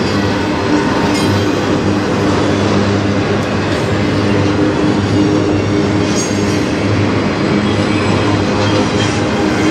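Freight train's autorack cars rolling past: a steady, loud clatter of steel wheels on the rails.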